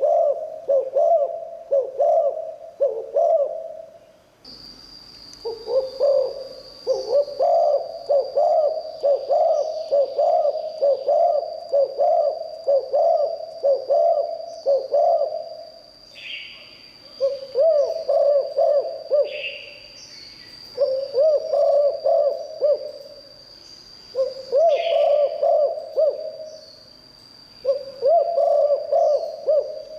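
Spotted dove cooing in repeated rhythmic phrases: one long unbroken bout, then shorter bouts with brief pauses between them. From about four seconds in, a thin steady high-pitched tone runs underneath, and a few short higher chirps come in the gaps.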